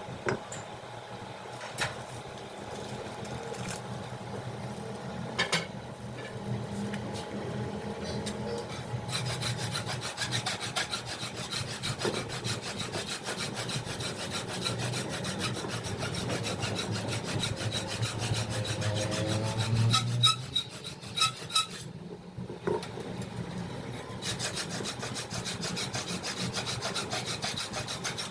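A steady rasping, rubbing noise with a fast, even rhythm, and a few sharp clicks about twenty seconds in.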